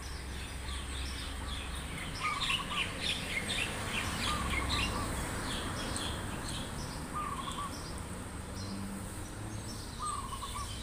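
Birds calling: a flurry of short high chirps, and a short warbling call repeated four times about every three seconds, over steady low background noise.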